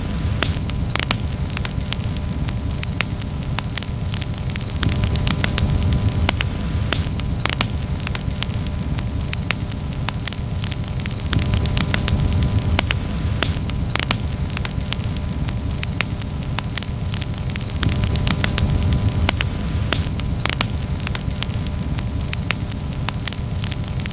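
Campfire crackling steadily, with many sharp pops and snaps scattered irregularly over a continuous low rumble.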